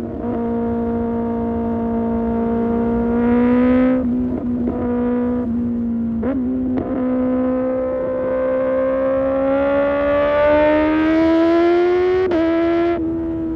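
Kawasaki ZX-6R's inline-four engine through an Arrow race exhaust, running hard at high revs. It holds steady, then stumbles in pitch with a few quick breaks about four to seven seconds in. It then climbs steadily, drops sharply in pitch about twelve seconds in like a quick upshift, and eases off near the end.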